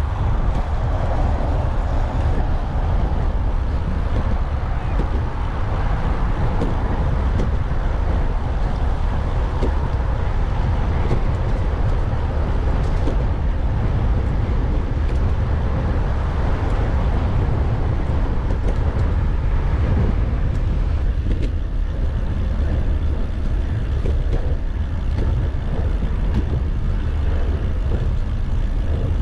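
Wind buffeting the microphone of a bicycle-mounted action camera while riding, with road traffic running steadily alongside.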